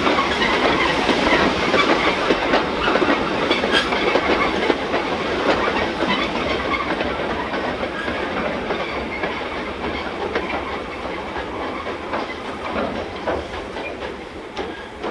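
Train rolling past, its wheels clicking over rail joints, gradually fading as it moves away.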